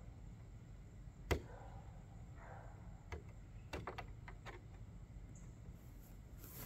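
Deck box parts being handled during assembly: one sharp knock about a second in, then a little rustling and a quick run of lighter clicks and taps.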